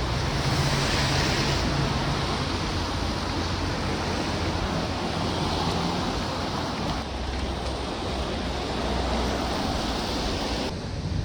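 Steady hiss of traffic on a wet, slushy street, with a low engine hum underneath. The hiss drops off sharply near the end.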